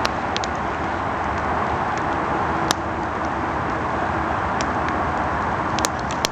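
Campfire burning: a steady rushing roar of flames with scattered sharp pops of crackling wood, about six in all.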